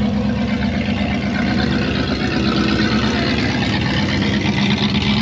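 A vehicle engine idling steadily, with a low, even drone.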